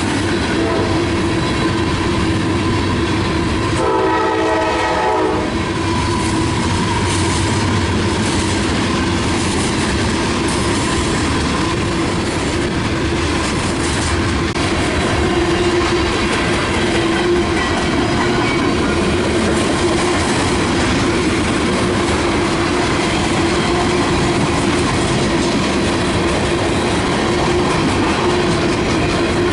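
A train rolling past on the rails with steady wheel clatter. About four seconds in, a locomotive horn sounds one blast of about a second and a half.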